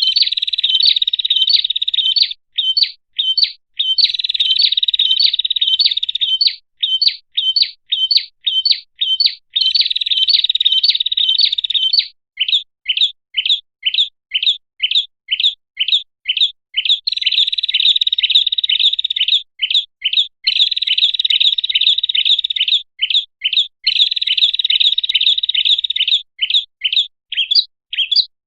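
Prenjak (prinia) song: a rapid string of short, sharp, high chirps, about three or four a second, broken several times by stretches of fast, dense trilling lasting two or three seconds each.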